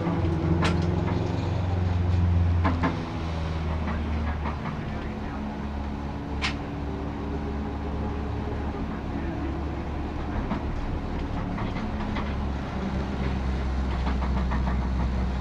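Honda Integra DC2 race car's four-cylinder engine running steadily at low revs, heard from on board, with scattered light clicks and rattles. The engine note drops in level about three seconds in and then holds.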